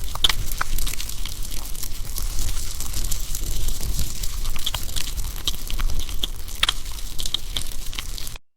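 AI-generated campfire sound: wood fire crackling with frequent sharp pops and snaps over a low rumble and a steady hiss. It cuts off abruptly into silence near the end.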